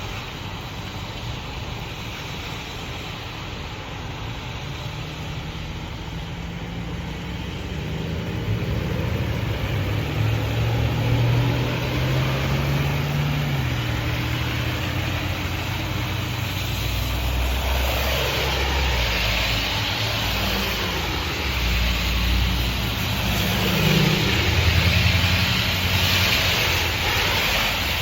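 Motor vehicles passing on a rain-wet road: low engine hum with tyre hiss that swells as each one goes by, growing louder in the second half.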